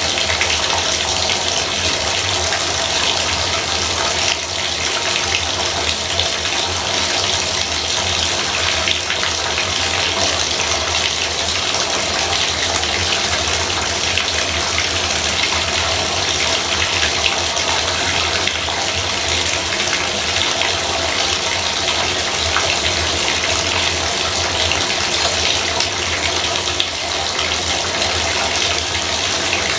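Bathtub faucet running steadily, water pouring in a continuous stream with a low hum under it.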